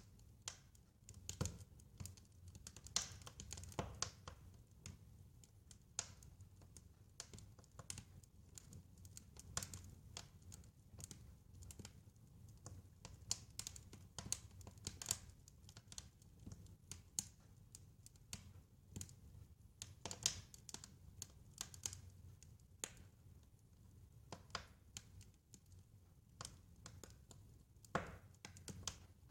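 Wood fire crackling in a fireplace: irregular snaps and pops of varying loudness over a low, steady rumble of the flames.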